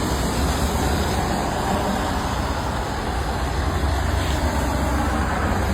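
Steady motor-vehicle road noise: a constant low rumble under an even hiss.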